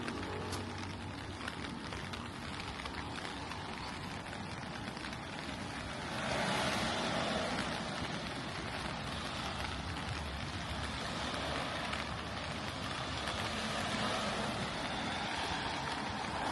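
Steady rain falling on the street. About six seconds in, a vehicle passes with its tyres hissing on the wet road, and another starts to approach near the end.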